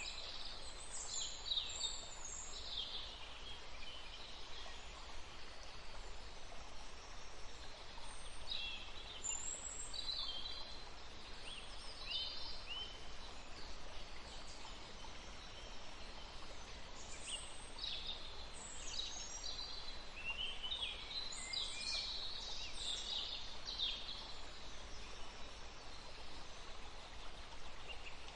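Songbirds chirping and trilling in bursts over the steady rush of a forest stream, busiest near the start, again around the middle and through the last third.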